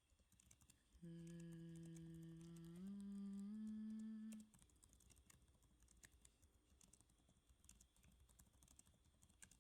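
A woman hums softly: three held notes, each a step higher than the last, ending about halfway through. Quiet computer-keyboard typing clicks away underneath and carries on after the humming stops.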